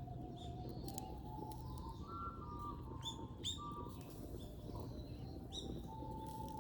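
A bird calling repeatedly outdoors, short sharp high chirps that drop steeply in pitch, about one a second. Under it a soft recorder melody plays slowly, note by note.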